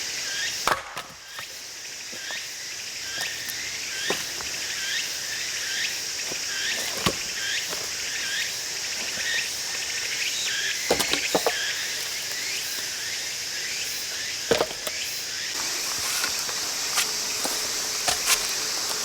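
A few sharp knocks of firewood, several seconds apart, over a steady high drone of insects, with a short chirping call repeated about twice a second through the first half.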